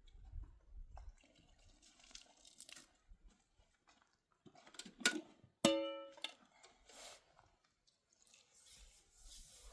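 Scattered knocks and scraping, with one sharp strike a little past halfway that rings on with a clear, fading tone.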